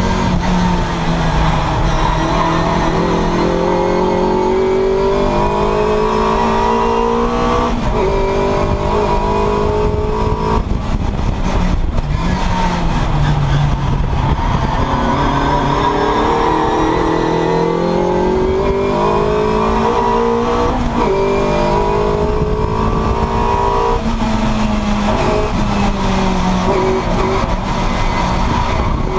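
Classic Mini race car's four-cylinder engine heard from inside the cabin at full racing speed, repeatedly climbing in revs and dropping sharply at each gear change, with falling revs under braking into corners.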